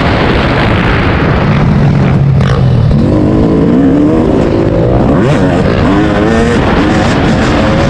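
Dirt bike engine running hard on a motocross track under a loud rushing noise, its pitch rising and falling with the throttle.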